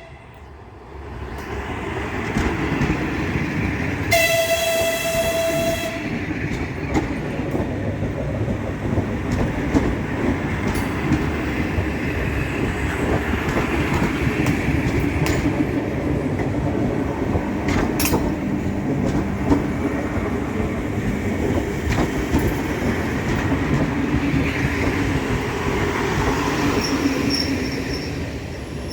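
Electric train passing. About four seconds in it sounds one horn blast lasting about two seconds, followed by a steady rumble of wheels on rail with clicks from the rail joints as the cars go by.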